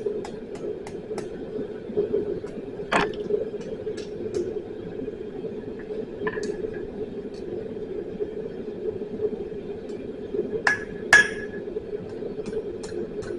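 Blacksmith's forge running with a steady rushing sound, with faint light ticking at first and a few sharp ringing clinks of steel on steel, the loudest a close pair near the end.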